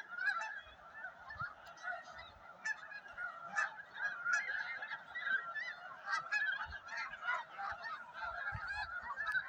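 A large flock of snow geese calling: a dense, unbroken chorus of many short overlapping honks.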